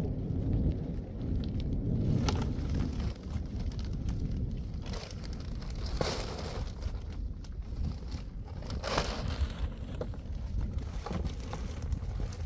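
Low rumbling noise with scattered crackles and rustles.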